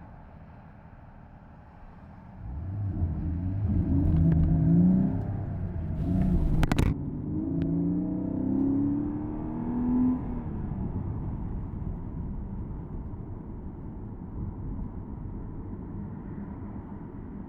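Porsche Boxster S (987.2) 3.4-litre flat-six accelerating, starting to pull hard about two and a half seconds in with its pitch climbing through the revs. There is a short sharp click near halfway, then a second climb before it eases off to a steady cruise with road and wind noise in the open-top cabin.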